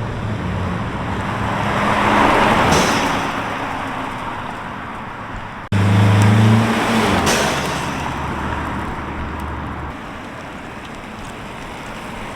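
Mercedes E300's turbocharged four-cylinder passing by with its exhaust cutout valves closed: mostly tyre hiss that swells and fades, under a low, subdued exhaust hum. It passes twice, the second pass starting abruptly about halfway through with a stronger low hum.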